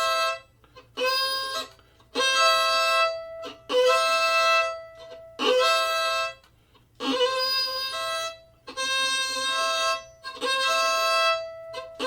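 Fiddle playing slow double stops: about eight separate bow strokes with short breaks between, each sounding two strings together with a note held against the E string.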